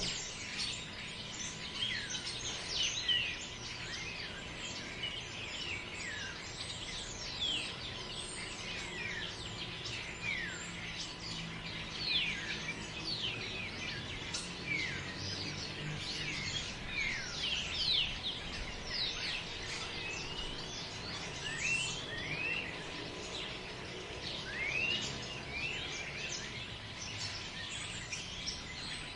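A dense chorus of many birds chirping, made up of short, quick sweeping calls that overlap continuously, over a faint steady background hiss.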